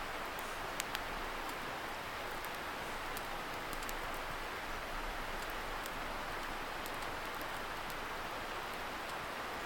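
Wood campfire crackling with scattered small pops, two sharper pops about a second in, over a steady hiss of a distant river rushing.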